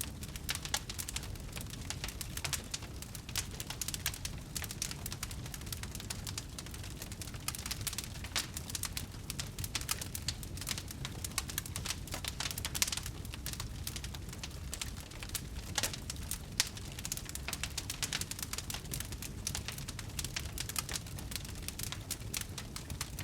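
Wood fire crackling: dense, irregular small pops and snaps over a low steady rumble of burning.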